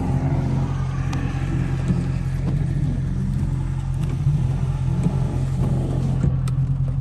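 Car engine running steadily, with no revving.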